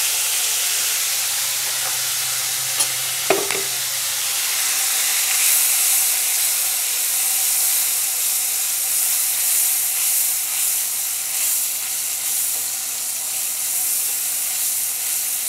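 Ground onion-tomato masala and ginger-garlic paste sizzling steadily as they fry in mustard oil in an aluminium kadai, stirred with a wooden spoon. Two sharp knocks about half a second apart come near 3 seconds in.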